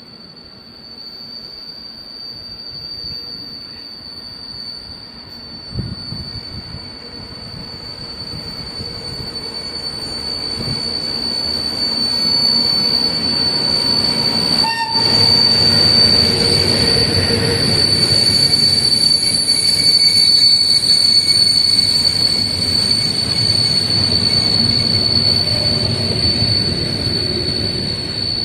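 Train running past, growing louder from about ten seconds in, with a steady high-pitched wheel squeal throughout.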